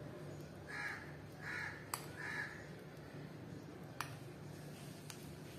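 A bird cawing three times in quick succession, each call short, with a few sharp light clicks scattered through.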